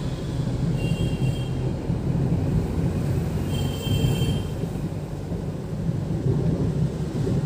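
Steady low drone of road and engine noise inside a moving Hyundai Xcent's cabin, with two brief high-pitched squeaks, about a second in and again about three and a half seconds in.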